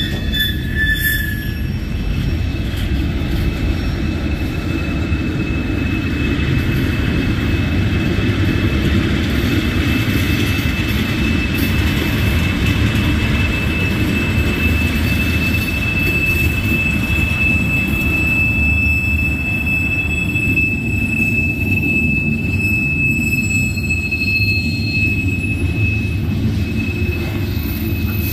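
Freight cars of a CSX manifest train rolling past: a steady low rumble of steel wheels on rail, with a thin, steady, high-pitched wheel squeal held above it through most of the passage.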